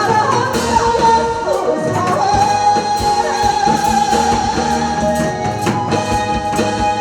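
Trot song with a singer's voice over a backing band track with a steady drum beat; after a couple of seconds of moving melody the singer holds one long note.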